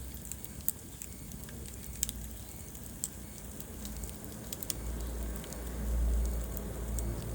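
Wood fire crackling in a fireplace: scattered sharp pops and ticks over a steady hiss, with a low rumble from the flames that grows louder about five seconds in.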